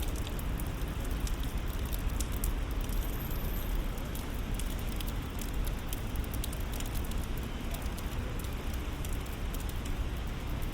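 Steady rain falling, with many small sharp drop ticks over a low, even rumble.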